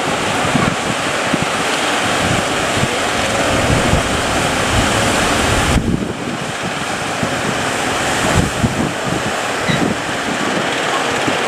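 Heavy sea surf under strong wind buffeting the microphone, with low rumbling gusts; the sound changes abruptly about halfway through.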